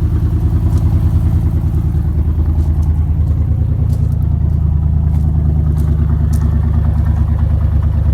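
1996 Ford Explorer's engine idling steadily just after a cold start, its exhaust running without catalytic converters.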